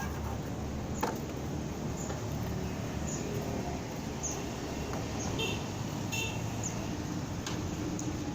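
Motorcycle running on the road: steady engine and road noise while riding, with a few sharp clicks and several short high chirps.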